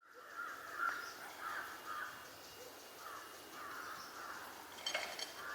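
Crows cawing again and again over quiet rural ambience, with a short crackle near the end.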